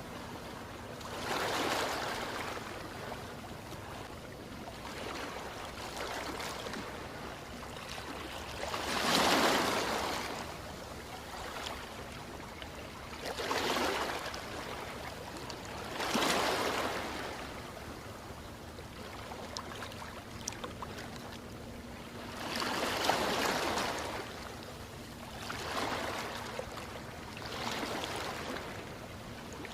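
Ocean waves breaking and washing ashore, each surge swelling and falling away every three to seven seconds over a steady wash of surf, the strongest wave about nine seconds in.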